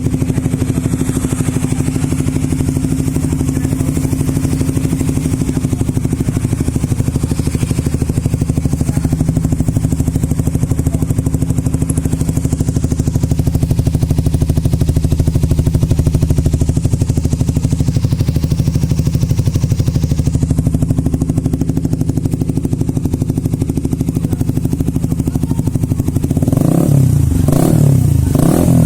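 Suzuki GSX-R150's single-cylinder engine running through an aftermarket ARM 'Hexagon' stainless racing silencer, idling steadily, then blipped with a few quick revs near the end.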